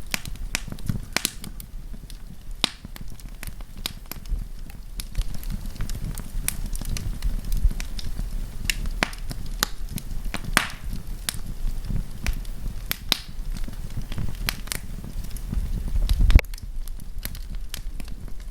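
Wood campfire crackling, with sharp pops at irregular intervals over a low rumble of the flames, and one louder pop near the end.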